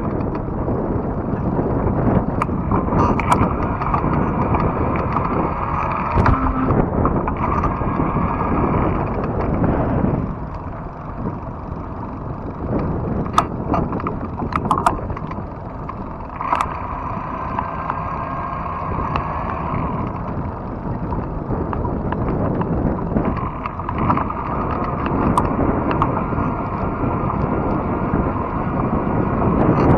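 Wind rushing over the microphone with the rolling rumble of a fat-tire e-bike on the trail. Scattered sharp clicks and rattles are heard along the way, and the rush eases for a stretch from about ten to twenty seconds in.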